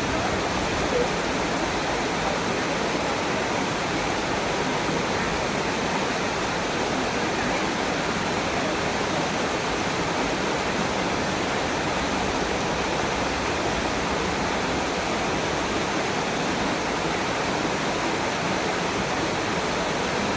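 Waterfall falling, a steady rushing of water.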